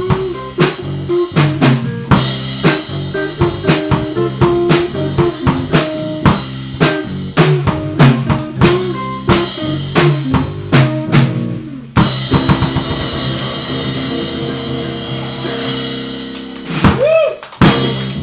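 Live band with drum kit playing a driving soul groove, the snare and bass drum hitting hard on the beat. About twelve seconds in it lands on a final crash and held chord that rings out and fades, followed by a couple of short closing hits near the end.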